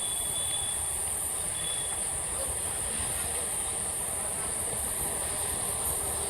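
EMU local train running with a steady low rumble, with no sudden loud events. Two brief high-pitched tones sound in the first two seconds.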